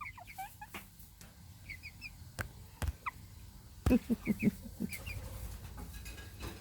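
Young chickens making short high peeping chirps, with a quick run of soft low clucks about four seconds in. A few sharp taps, typical of a beak pecking at the phone, sound among them.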